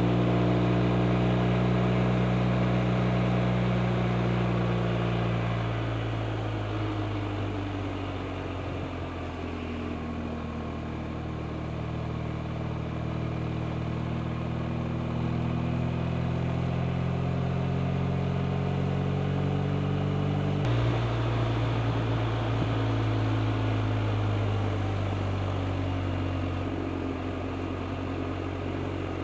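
BMW R 1250 RT's boxer twin engine pulling on the road: its note falls as the bike slows, then climbs steadily under acceleration. About 21 seconds in it drops suddenly at an upshift and starts climbing again.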